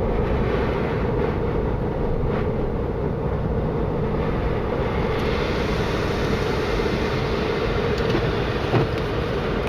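Four-wheel-drive vehicle driving through snow, a steady rumble of engine and tyres on the road, with a brief bump near the end.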